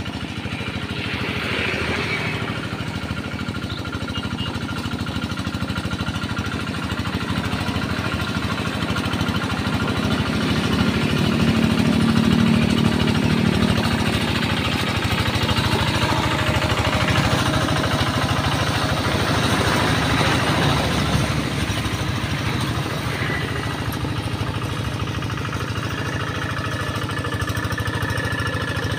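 Tractor engine running steadily while plowing a rice paddy, growing louder for a few seconds near the middle.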